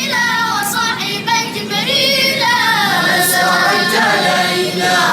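A vocal ensemble singing an Arabic-language song, several voices moving together in harmony on long, wavering sung notes.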